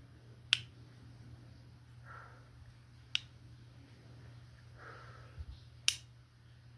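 Three sharp snaps, each very short and without ringing, about two and a half seconds apart, with soft swishing sounds in between.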